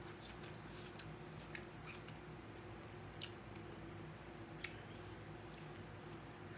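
Faint chewing of a mouthful of chow mein noodles, with a few short soft clicks from mouth and fork over a low steady hum.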